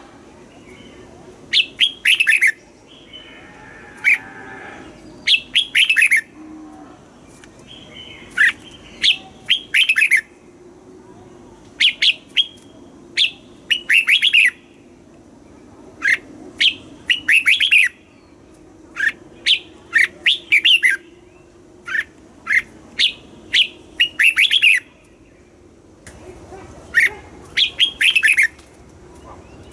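Red-whiskered bulbul singing: short, quick phrases of bright whistled notes, repeated every second or two, in the southern-Thai 'master' song style used to train caged birds.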